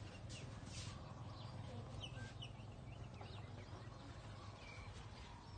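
Birds chirping in short, quick, downward-sliding chirps, scattered irregularly, over a steady low hum.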